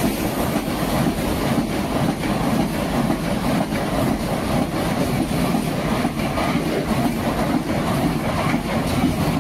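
Renfe passenger train passing close by: a steady rumble of wheels on the rails with repeated clatter of the wheels over the track.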